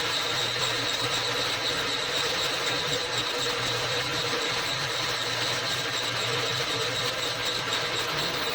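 An electric power tool running steadily under load while shaping a new wooden hammer handle, with a constant high whine over a lower hum.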